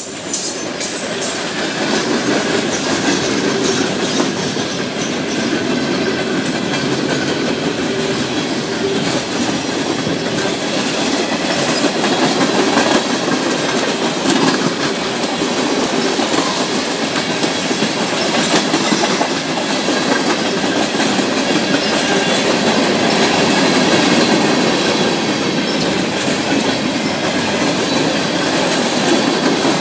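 CN mixed freight train's cars (tank cars, gondolas and boxcars) rolling past, steel wheels rumbling and clacking over the rail joints, with a few sharp clacks in the first second or so.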